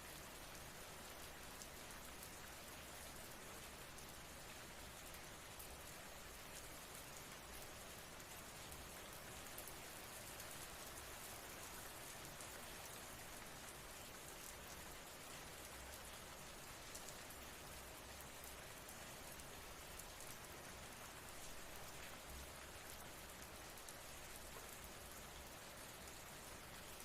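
Steady, faint rain falling, with fine patter of drops on a surface.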